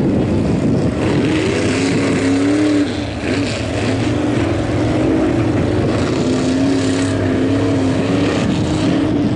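Big-block V8 engine of a Chevy Blazer mega truck on paddle tires running hard through mud and water. It revs unevenly, its pitch rising and falling, with a short drop in loudness about three seconds in.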